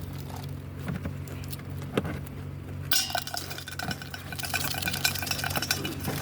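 Catch being handled in a metal cooking pot: scattered clinks and knocks, then from about three seconds in a dense rattling clatter for about three seconds, over a steady low hum.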